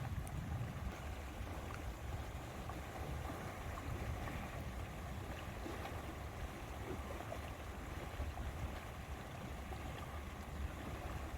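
Lakeside ambience: a steady wash of wind and water, with a fluctuating low rumble of wind on the microphone.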